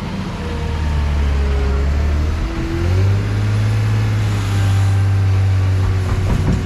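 Heavy vehicle engine running steadily, then picking up speed a bit under three seconds in and holding at the higher speed.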